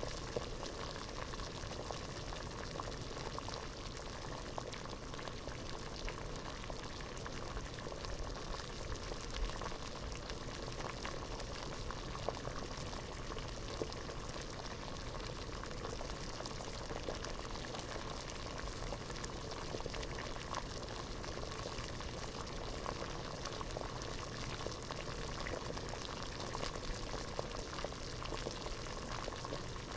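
Pot of water at a full boil: a steady, dense bubbling with many small pops and crackles throughout.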